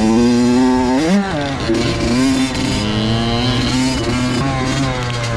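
Two-stroke dirt bike engine running under throttle while being ridden. The pitch dips and climbs quickly about a second in, then holds fairly steady with small rises and falls.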